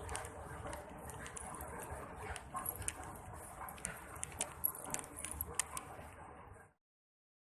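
Footsteps on a station floor, as light irregular taps over the steady low hum of the empty station. The sound cuts off abruptly to dead silence near the end.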